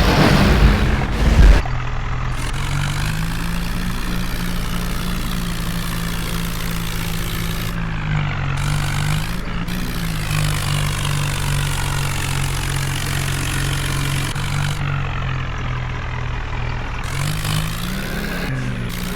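Heavy diesel engine running steadily, after a loud rush of noise in the first second and a half; its pitch dips and rises briefly around the middle and again near the end.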